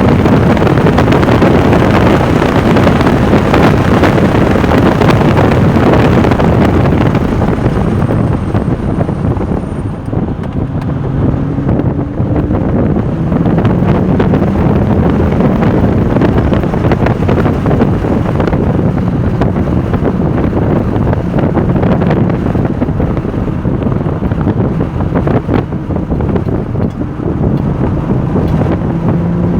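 Porsche 996 Turbo's twin-turbo flat-six running hard at track speed, with heavy wind buffeting on the microphone. The engine eases off about ten seconds in, then pulls again, its pitch rising.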